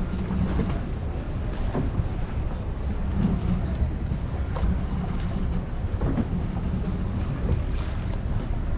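Steady low rumble of a boat under way, with wind buffeting the microphone.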